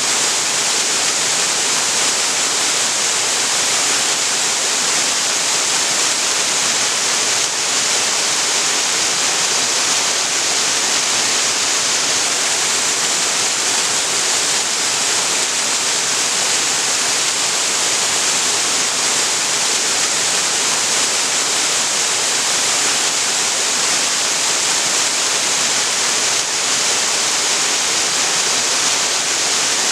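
Waterfall pouring steadily: a loud, even rush of falling water with a bright hiss and no breaks.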